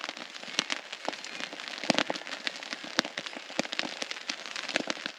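Heavy rain falling on a poncho tarp overhead, heard from underneath: many sharp, irregular drop hits over a steady hiss, a few of them much louder than the rest.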